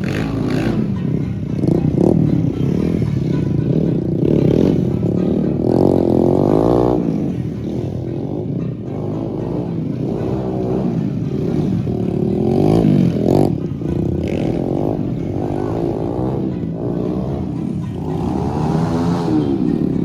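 Engines revving up and down again and again, several rises and falls in pitch, loudest about six seconds in, around twelve seconds and near the end.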